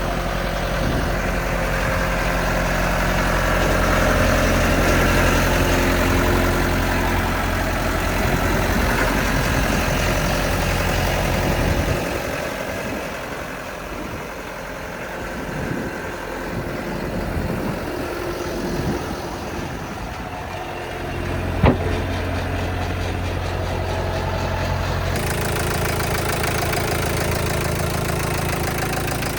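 Morooka MST600 crawler dump truck's diesel engine running steadily. Its low sound falls away and the whole is quieter for several seconds past the middle, then the engine comes back strongly. A single sharp click comes about three quarters of the way in.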